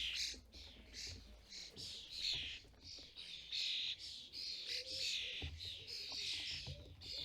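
Common starling fledglings begging: a steady run of short, scratchy calls, about two a second.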